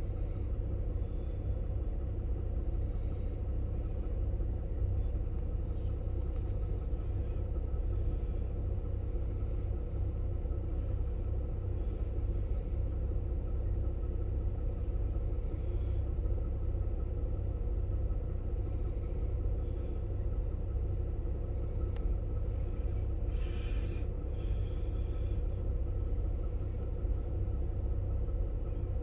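Steady low rumble with no thunder in it, and a few faint higher sounds scattered through it.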